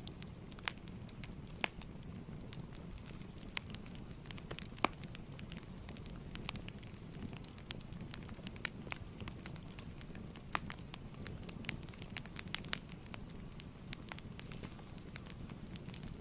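Wood fire crackling in a fireplace: irregular sharp pops and snaps, several a second, over a low steady rumble of burning.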